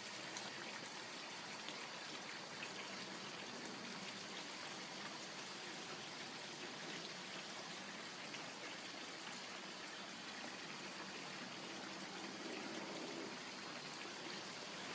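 Faint, steady water sound, a soft trickling patter with no change through the stretch.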